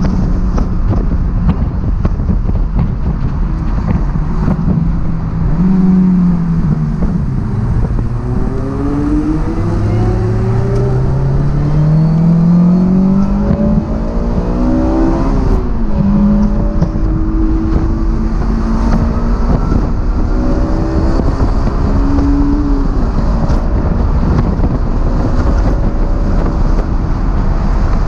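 Honda S2000's four-cylinder engine on a track lap, heard from the open cockpit: its pitch falls about five seconds in, climbs steadily through the revs from about nine seconds in with a gear change near the middle, then holds fairly steady. Constant wind and road rumble run underneath.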